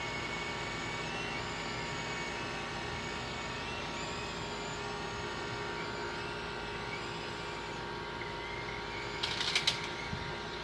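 Electric motor and rotors of an Extreme S-8G RC helicopter whining steadily in flight, the pitch wavering slightly up and down. A short burst of clattering near the end.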